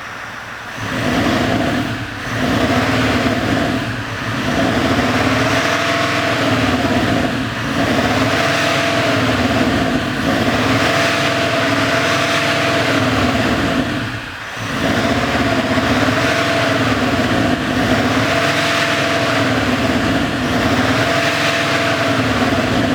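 SsangYong Rexton Khan's 2.2-litre four-cylinder turbodiesel with a JSR Schnecke active sound booster, revved over and over: the pitch rises and falls every two to three seconds, some revs held longer, with a short drop back to idle about two-thirds of the way through.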